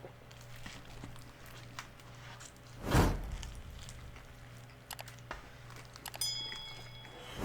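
Close-miked eating of a chicken flauta: quiet chewing, with a loud sudden noise about three seconds in and another at the end, and a short ringing clink a little after six seconds.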